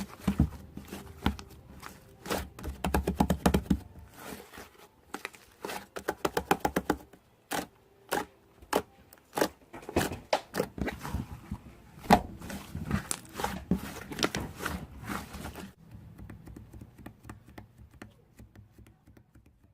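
Hands squishing, poking and pressing a fluffy, chewy slime, making rapid sticky clicks and wet pops; they thin out and grow fainter about three-quarters of the way through.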